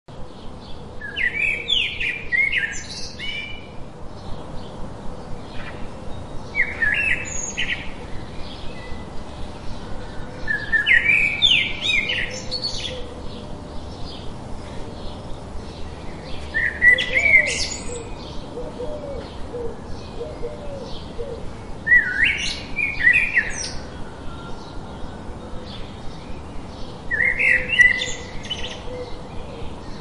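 Birdsong: a bird sings a short, quick phrase of rising and falling high notes about every five seconds. Under it runs a steady, fast, even ticking.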